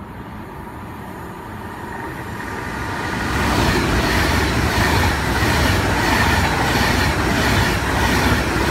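Virgin Trains class 390 Pendolino electric express running through the station at speed. The sound builds over the first three seconds as it approaches, then holds as a loud, steady rush with regular clickety-clack beats from the wheels.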